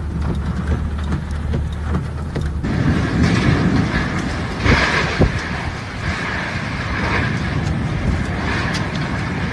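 Storm noise with traffic: a steady rush of wind and rain mixed with vehicles on the road. A low hum underlies the first couple of seconds, and the sound changes about two and a half seconds in.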